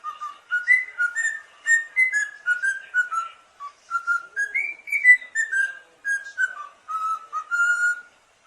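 A parrot whistling a tune: a long run of clear whistled notes stepping up and down in pitch, one after another.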